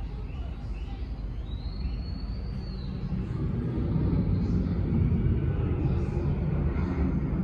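Jet airliner engines rumbling, growing louder about three seconds in as the aircraft powers up or draws nearer.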